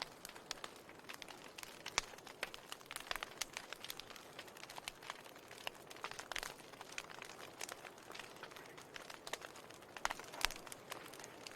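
Wood fire crackling: irregular sharp pops and snaps over a soft steady hiss, with louder pops about two seconds in and about ten and a half seconds in.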